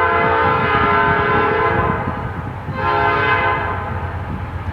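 Diesel locomotive air horn sounding two blasts, a long one that ends about two seconds in and a shorter one a little later, with the low rumble of the approaching train underneath.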